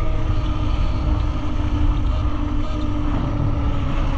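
Wind buffeting the microphone while riding a QS138-motor electric dirt bike at speed, with a steady whine from the motor and chain drive. Among it is the noise from beside the wheel that comes from a part that has worked very loose.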